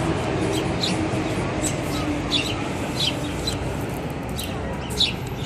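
Small birds chirping: short, sharp high chirps, irregular at about one or two a second, with the loudest near the end.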